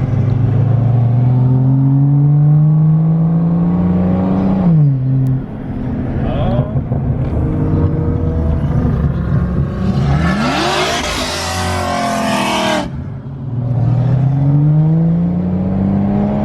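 A car engine revving hard several times: the pitch climbs steadily for a few seconds, then drops sharply as the throttle is released. About ten seconds in, a loud harsh rushing noise lasts close to three seconds.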